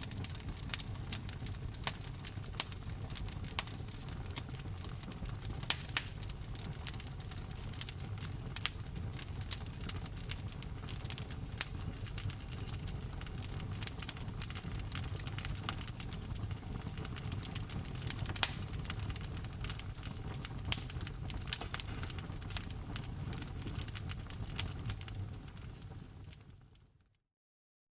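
Wood fire crackling, with frequent sharp pops and snaps over a low steady rumble of burning logs. It fades out to silence near the end.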